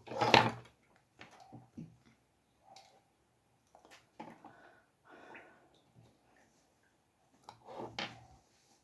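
Desk handling sounds: a short, loud knock-and-scrape at the start, then scattered smaller scrapes and taps, and another longer scrape near the end.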